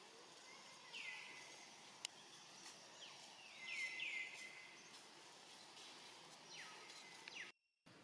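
Small birds calling over faint woodland ambience: short whistled calls that fall in pitch, heard singly about a second in, then three or four in quick succession around the middle, and twice more near the end. A single sharp click about two seconds in, and the sound cuts out for a moment just before the end.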